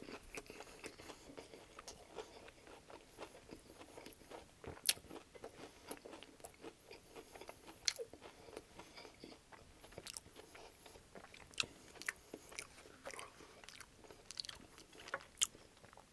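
Close-miked chewing of a mouthful of crispy chicken ranch wrap with lettuce and flour tortilla: soft mouth sounds broken by scattered sharp crunches, the loudest a little before five seconds in.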